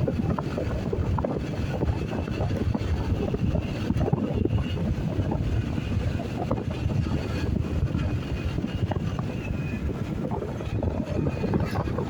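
Wind buffeting the microphone over the running of a motorcycle and its road noise while riding, a steady low rumble with no break.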